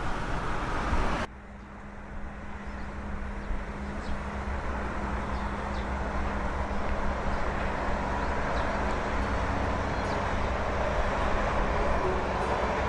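Steady vehicle rumble with a low hum. It drops off suddenly about a second in, then slowly builds back up and runs on steadily.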